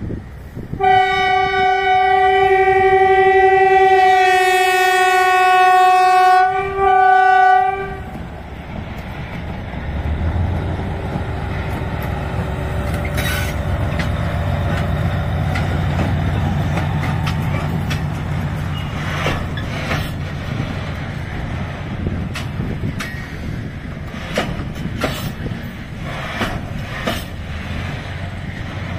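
Diesel shunting locomotive's horn sounding one long blast, then a short second one after a brief break. Next comes the locomotive's diesel engine running as it crosses, and then container wagons rolling past with the clicking and clatter of wheels over the rail joints. The horn is the loudest part.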